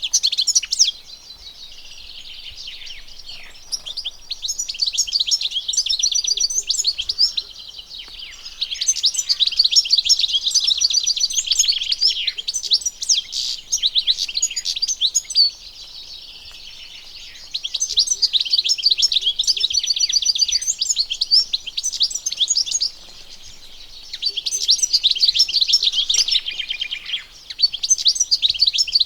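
European goldfinch singing: long phrases of rapid, tinkling twittering notes, broken by short pauses of a second or two.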